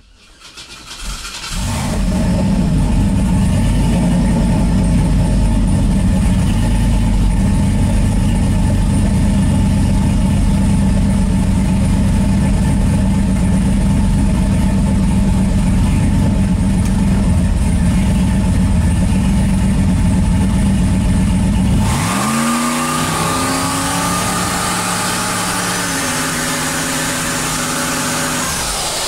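Turbocharged LS V8 drag engine running steadily. About twenty seconds in it is brought up against its 3-step launch limiter on the brake: the revs climb and a turbo whine rises over about five seconds as it builds boost, holds, then falls away near the end.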